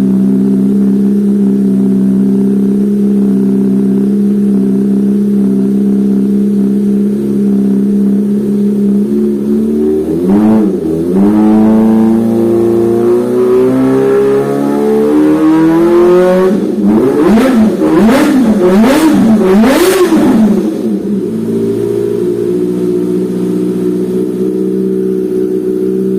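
Kawasaki ZX-25RR's 250 cc inline-four idling through a loud aftermarket exhaust, then revved: a short blip about ten seconds in, a slow climb in revs, then four quick blips before it settles back to idle.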